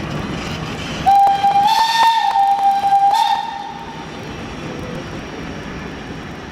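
A railway locomotive's whistle blowing one blast of a little over two seconds: a single steady high note that steps up slightly partway through, over a low rumble of rail traffic.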